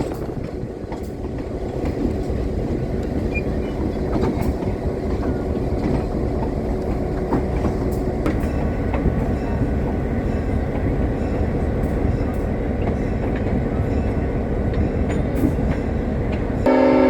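Train rolling along the track: a steady rumble with scattered clicks of wheels over rail joints. Right at the very end, a horn blast starts.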